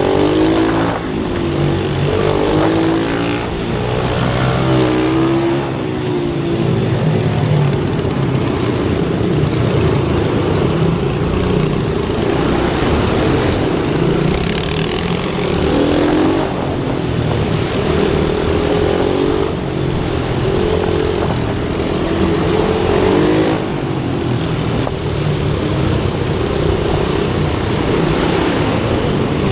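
Pit bike engines running hard, revving up and easing off again and again as they lap.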